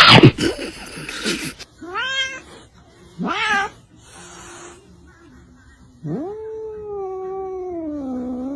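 A loud, noisy burst at the start, then a cat meowing twice in short rising calls, then a long drawn-out wavering yowl starting about six seconds in.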